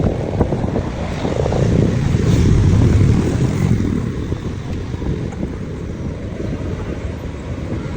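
Wind buffeting the microphone with the low rumble of a moving vehicle, rising and falling in strength, typical of recording from a moving motorbike.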